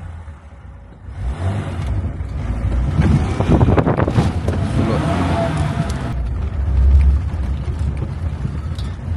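Old Soviet Lada car driving, its engine running with a steady rumble after a brief lull at the start, and a burst of rattling about three seconds in.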